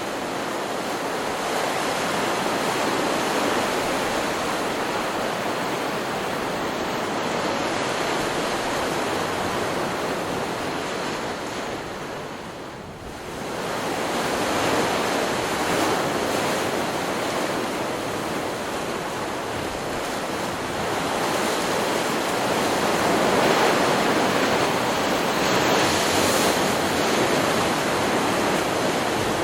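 Ocean surf from a stock beach recording: a continuous rush of breaking waves that dips about halfway through, then swells back up as the next waves break.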